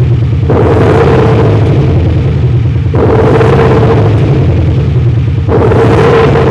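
Hyundai Palisade 3.8 gasoline V6 with a JSR Just Active Sound exhaust sound system switched on, giving a deep, loud V8-style exhaust rumble. It swells louder about half a second in, again around three seconds and again near five and a half seconds.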